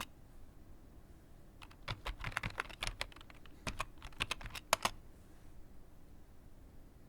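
Typing on a computer keyboard: a single keystroke right at the start, then a quick run of keystrokes from about a second and a half to about five seconds in.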